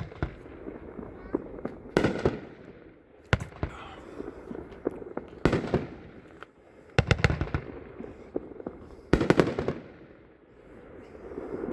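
Nine-shot firework cake firing its aerial shots: sharp bursts every one to two seconds, each trailing off, with some coming as quick clusters of pops.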